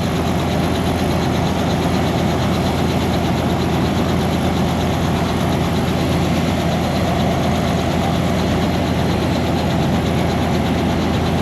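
Tour helicopter's turbine engine and rotor running steadily on the ground before lift-off, a loud constant hum with fine even pulsing.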